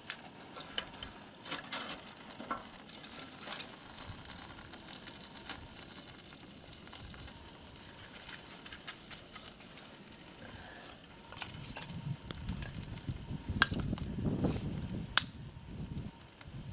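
Freshly lit kindling crackling and hissing in the open firebox of a homemade wood stove, with scattered sharp pops. In the last few seconds a louder low rumble joins in, with a few stronger snaps.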